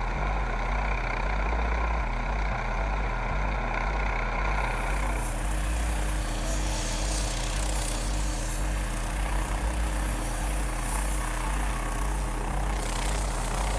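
Unmanned helicopter drone running steadily, engine and rotor noise with an even low throb; a hiss joins about four and a half seconds in.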